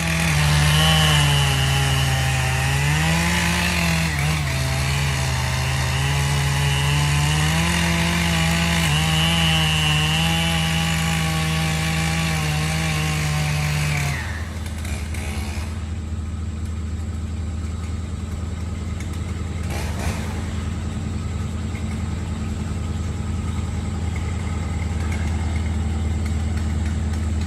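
A chainsaw running under load, its pitch rising and falling, over a steadily idling vehicle engine. The chainsaw stops about fourteen seconds in, leaving the engine idling.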